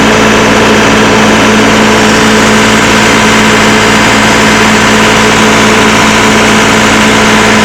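Doosan 7/71 towable air compressor's diesel engine running loud and steady at a constant speed.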